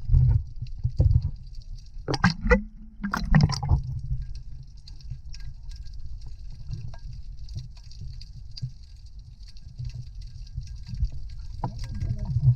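Water sloshing and gurgling with a dull low rumble and scattered muffled thuds, and a few sharp knocks about two to four seconds in.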